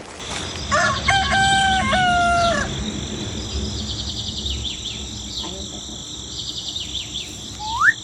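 A rooster crows once: a long cock-a-doodle-doo with held, stepped notes. A steady high chirring of insects runs underneath, and near the end there is a short rising whistle.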